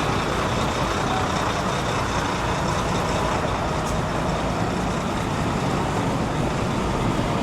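Steady roar of busy city street traffic, a continuous low engine rumble from trucks and buses with a general hiss of road noise.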